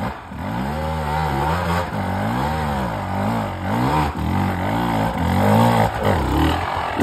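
Enduro dirt bike engine revved up and down over and over, about once a second, as the rear wheel struggles for grip in soft, leaf-covered ground.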